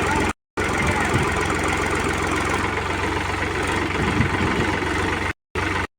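New Holland 3600-2 TX tractor's diesel engine running steadily with a low, pulsing throb. The sound drops out briefly twice: once just under half a second in and once near the end.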